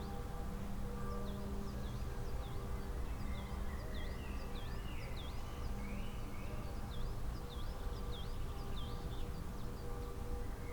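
Small songbird calling over and over with short, high notes that dip and rise again, roughly two a second, with a few lower bird notes in between. Beneath the birds run a steady hum and a low rumble.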